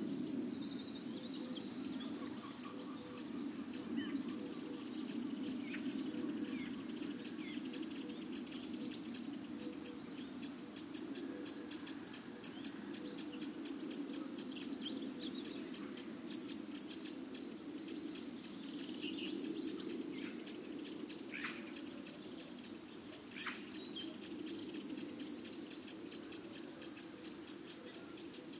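Outdoor birdsong ambience: a high, thin chirp repeated evenly about three times a second, with a few separate falling bird calls, over a steady low background hum.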